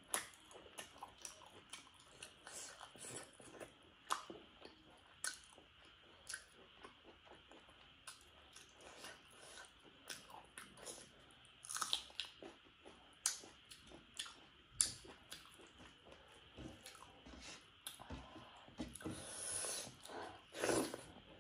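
A person chewing food close to the microphone: irregular wet mouth clicks and small crunches. Near the end there is a longer breathy rush of sound.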